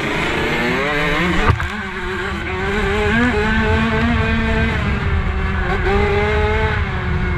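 Several 65cc two-stroke motocross bikes racing, their engines revving and changing pitch as they accelerate and shift. A single sharp knock about a second and a half in.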